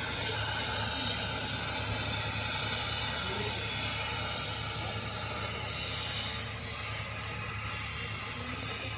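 A steady, unbroken hiss, strongest in the high treble.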